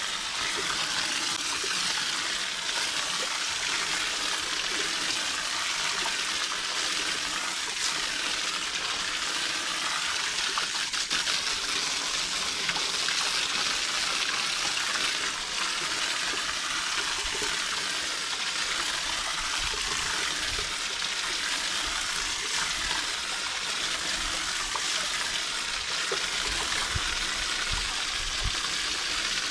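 Water spraying steadily from a garden hose nozzle, rinsing an air-conditioner condenser coil.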